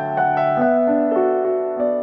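Background music: gentle electric piano or keyboard playing a slow melody over held notes.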